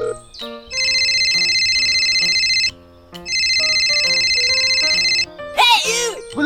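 Telephone ringing twice, each ring a rapid trilling bell lasting about two seconds, over background music. This is an outgoing call waiting to be answered. Near the end there is a brief sweeping, voice-like sound.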